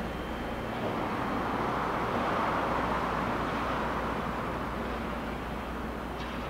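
Tokaido Shinkansen train approaching a station, a steady rushing running noise that swells to a peak about two to three seconds in, then eases a little.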